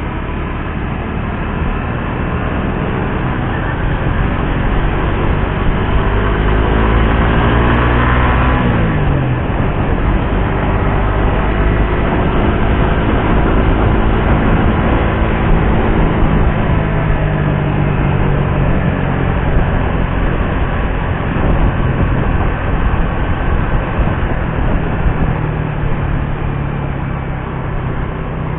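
Suzuki GSX-R150's single-cylinder engine and exhaust heard from the moving motorcycle: the revs climb for several seconds, drop sharply about eight seconds in, then hold fairly steady with small rises and falls.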